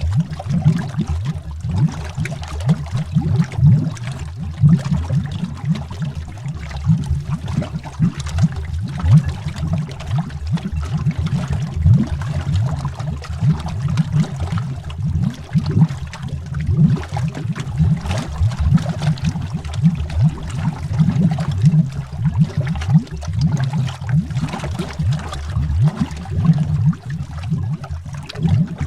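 Underwater bubbling: a dense, continuous stream of low, gurgling bubble pops heard as if through water.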